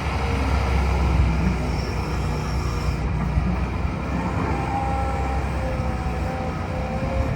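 Hitachi ZX210LC-7 excavator's diesel engine running steadily, with a faint steady whine joining in about halfway through.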